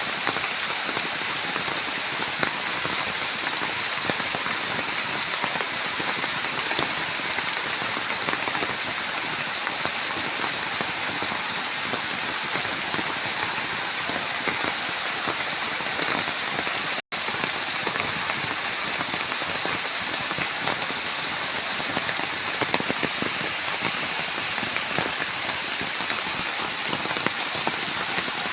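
Steady heavy rain: a dense, even hiss thick with small drop impacts. It drops out for a split second about two-thirds of the way through.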